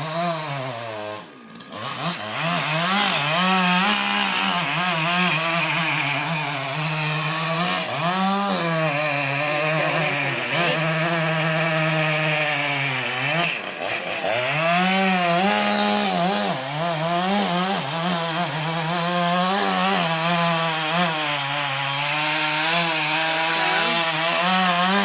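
Chainsaw running at high revs while cutting into a large tree trunk. Its pitch sags under load and climbs back several times, dropping briefly toward idle about a second and a half in and again around fourteen seconds.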